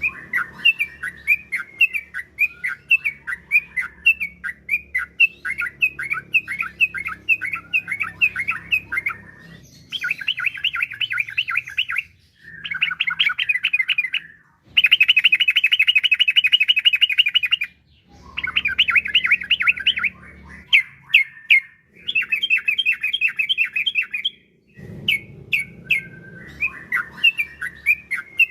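Yellow-vented bulbul (trucukan) singing: fast runs of bubbly chirping notes in repeated bouts, broken by brief pauses.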